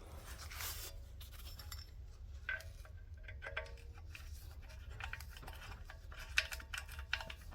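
Faint, scattered clinks and scrapes of hand tools and metal exhaust parts being handled, with a sharper clink about six seconds in.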